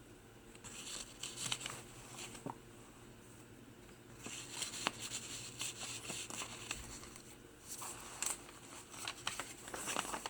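Pages of a handmade paper-and-fabric journal being turned and handled, with rustling and crinkling of paper and light taps, coming in a few clusters.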